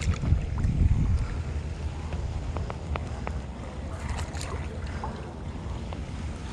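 Kayak on open water: a steady low rumble of wind on the microphone with scattered small clicks and knocks of gear and hull handling.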